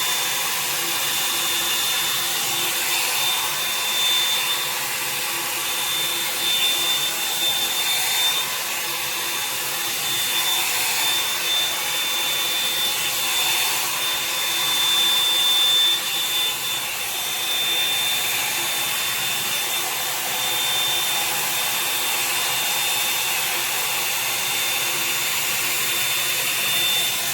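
Revlon one-step hair dryer brush running steadily, its fan blowing hard with a constant high whine, as it is drawn through wet hair.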